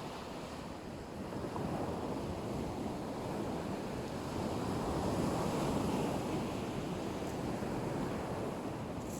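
Black Sea surf washing onto the shore in a continuous rush, swelling twice and easing back, with wind buffeting the microphone.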